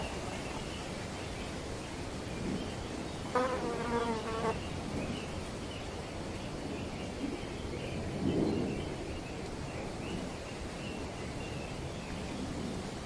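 Wind rustling through tree foliage as a steady hiss, with faint high chirps throughout. About three and a half seconds in, a flying insect buzzes close by for about a second.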